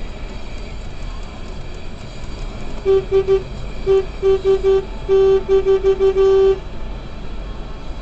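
Car horn honking in a rapid string of short blasts, with a couple of longer held blasts among them, starting about three seconds in and stopping after about three and a half seconds. Steady road noise from a moving vehicle runs underneath.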